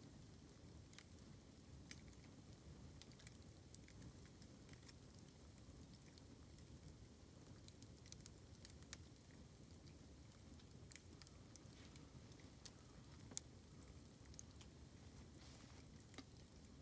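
Faint crackling of a bamboo campfire, scattered sharp pops and ticks at uneven intervals, one louder pop a little after thirteen seconds in.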